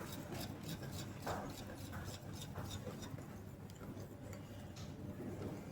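Faint, light clicking of a mixing utensil against a bowl as flour is stirred into cake batter, about four clicks a second, fading out about halfway through.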